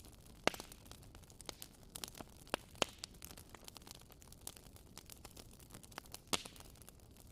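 Wood fire in a fireplace crackling, with sharp irregular pops over a soft hiss. The loudest pops come about half a second in and near the end.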